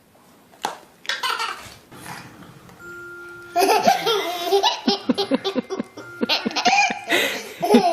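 A baby laughing hard in a quick run of giggling bursts that starts about halfway through, after a few short knocks.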